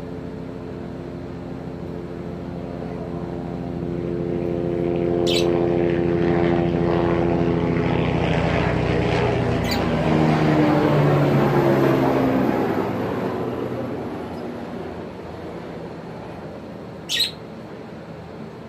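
Propeller aircraft passing overhead: a droning hum swells over several seconds, drops in pitch about halfway through as it goes past, then fades away. Three brief, high bird chirps cut through it.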